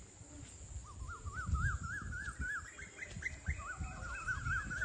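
A bird calling in two runs of quick repeated rise-and-fall notes, about four or five a second, with a short pause between the runs.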